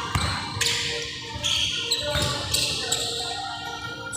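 Several dull thuds at irregular intervals over a steady hiss.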